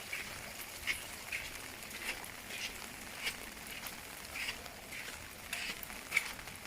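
Steady rain falling, with short splashy taps coming unevenly about once or twice a second.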